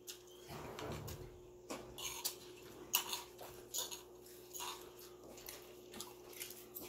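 Close-up eating sounds of a person eating rice and leafy greens by hand: chewing and lip-smacking in a string of short, irregular soft clicks and smacks, over a faint steady hum.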